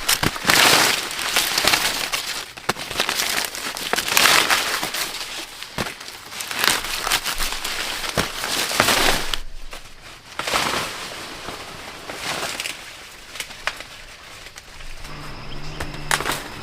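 Dry plant matter rustling and crackling in repeated swishes, each about a second long, with sharp snaps in between.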